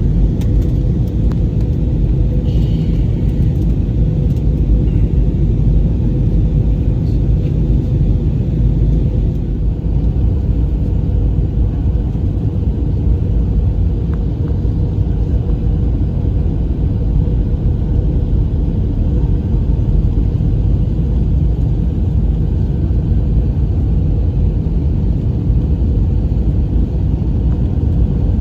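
Steady in-flight cabin noise of an Airbus A320: a loud, even low rumble of airflow and engines, with a faint steady hum near the top of the rumble.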